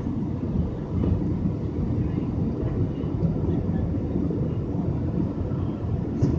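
Airbus A320 cabin noise: a steady low rumble of the engines and airflow, with no sharp thump or single event standing out.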